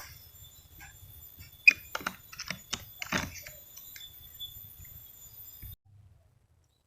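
A quick run of small sharp clicks and rattles lasting about two seconds, over a faint low rumble; all sound cuts off abruptly near the end.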